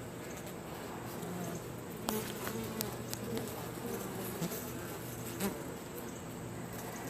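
Honey bees buzzing at an open hive, a steady hum with a few sharp clicks or knocks in the middle.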